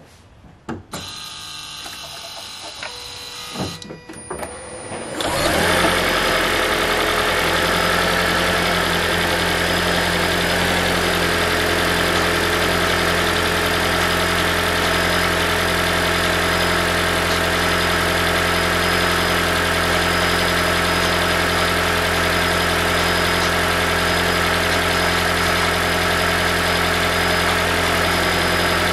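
2012 Toyota Prius V's 1.8 L 2ZR-FXE four-cylinder petrol engine starting about five seconds in, after a click, and then idling steadily with a metallic rattle. The rattle comes from the exhaust heat shield, whose washers are worn.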